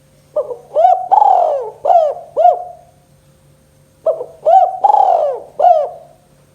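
Spotted dove (tekukur) cooing: two phrases of about five notes each, a couple of short notes, then a longer drawn-out coo and quick closing notes, with a pause of about a second between the phrases.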